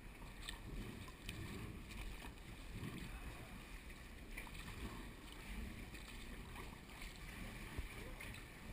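Kayak being paddled quietly: soft paddle strokes and water lapping at the hull, with a few faint knocks and a low rumble on the microphone.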